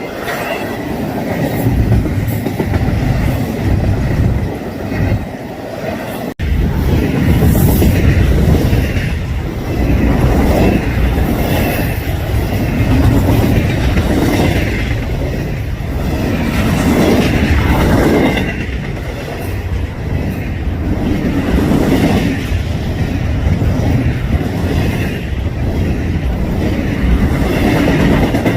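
A double-stack intermodal freight train rolling past close by, its wheels clacking over the rail joints in a steady, loud rumble. There is an abrupt break about six seconds in, after which the passing continues.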